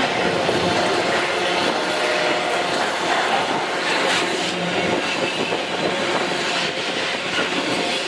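MRS freight train rolling past: a steady loud rumble of wagon wheels on the rails, with thin steady wheel squeal and a few clacks over rail joints.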